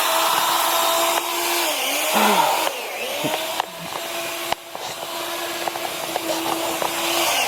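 An electric motor running with a steady, noisy whir and hum, its pitch sagging briefly and recovering a few times, about two and three seconds in.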